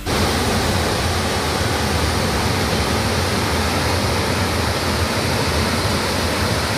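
Chitrakoot Falls on the Indravati River: the steady, even rush of a large waterfall.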